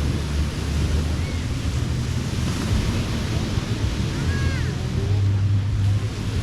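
Ocean surf washing steadily on a beach, with wind buffeting the microphone in uneven low rumbles.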